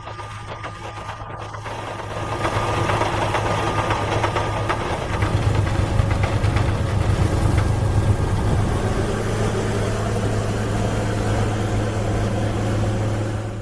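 Engine of heavy snow-clearing machinery running steadily with a low hum, growing louder about two seconds in.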